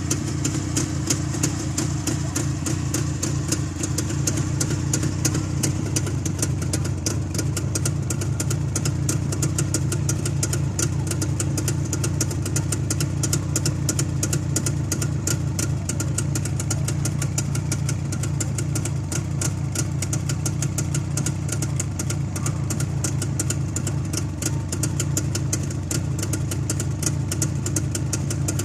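Freshly rebuilt Jawa 350 motorcycle's two-stroke twin engine idling steadily at an even speed.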